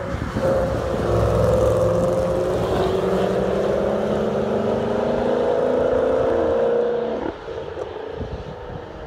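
A car's engine driving past at steady revs: a droning note with several pitches that holds for about seven seconds, then cuts off suddenly and leaves fainter road noise.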